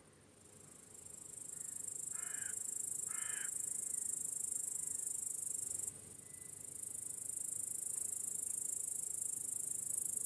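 High-pitched insect trill, the crickets of an evening meadow, swelling in over about a second, cutting off suddenly about six seconds in, then swelling back up. Two short harsh bird calls sound about two and three seconds in.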